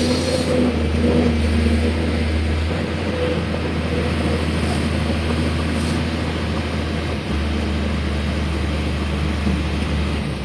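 Excavator's diesel engine running steadily with a low hum, its pitched note clearest in the first couple of seconds, under a steady hiss of heavy rain.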